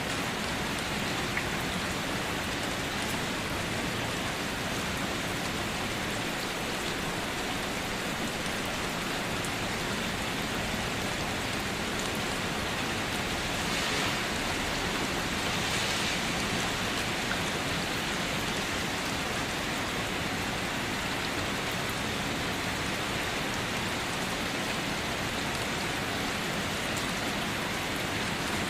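Steady rain falling on surfaces, a dense even hiss with scattered small drop ticks, swelling slightly about halfway through.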